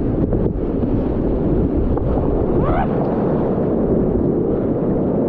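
Whitewater rapids of a steep, continuous Class 4 river rushing steadily and loudly, heard close up, with a short rising voice-like call about two and a half seconds in.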